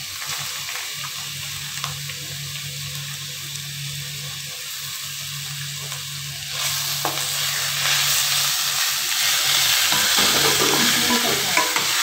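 Grated ash gourd sizzling as it fries in ghee in a pan, stirred with a spoon; the sizzle gets clearly louder about halfway through.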